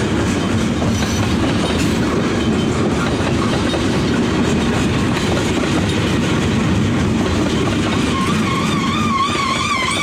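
A train passing close by, a steady heavy rumble of wheels on rail with clickety-clack. About eight seconds in, a high, wavering squeal joins it and keeps going.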